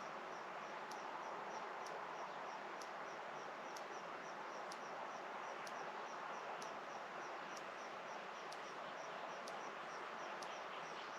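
Rural outdoor ambience on an April evening: an even background hiss, with a small creature's high chirp repeating about three times a second and a faint tick about once a second.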